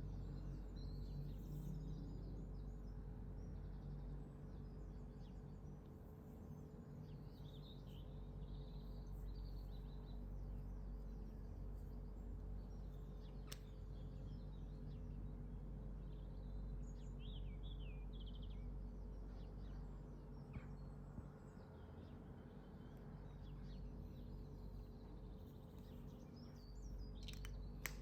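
Birds chirping faintly in short scattered calls over a low steady hum, with a sharp click about halfway through and another near the end.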